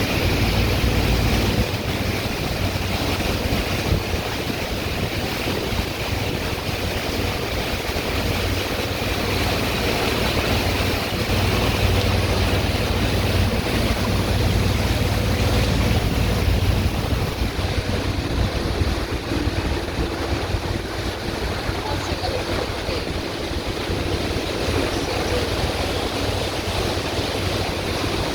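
Steady rushing, rumbling noise, with wind buffeting the microphone.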